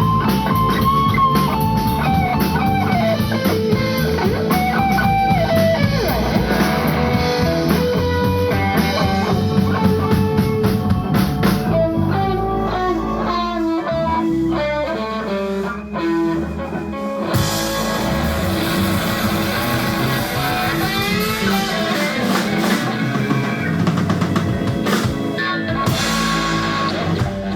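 Live rock band playing: an electric guitar lead with bent, gliding notes over bass and drum kit, filling out into a denser wash of cymbals and guitar in the second half, then the song stops right at the end.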